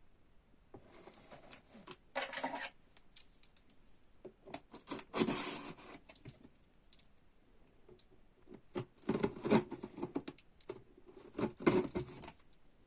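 Cardboard box and packaging being opened and handled: irregular scraping, rustling and clicks, with a few louder spells of a second or two.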